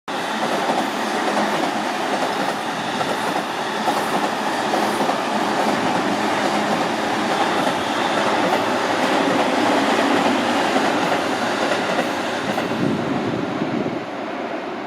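Electric commuter train running over a railway bridge: a steady, loud rumble of wheels on rails with faint clacks, easing off near the end.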